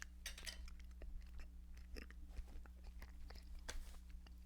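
A person chewing a big mouthful of microwave beef, bean and cheese burrito close to the microphone: soft wet mouth noises and many small clicks, over a steady low hum.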